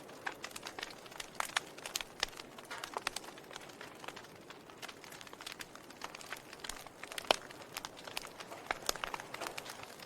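Wood fire in a fireplace crackling: irregular sharp pops and snaps over a low steady hiss, with one louder pop about seven seconds in.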